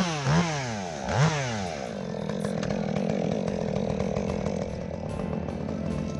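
Chainsaw revving up and down three times in quick succession, then running steadily.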